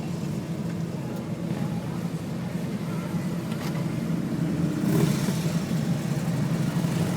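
Road traffic: motor vehicle engines running steadily, getting louder about five seconds in.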